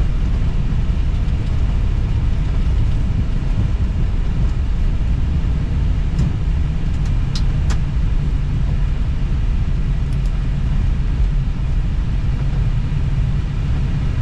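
Airbus A320 cockpit noise as the airliner rolls out on the runway after landing: a loud, steady low rumble of engines and wheels. A few faint clicks sound around the middle.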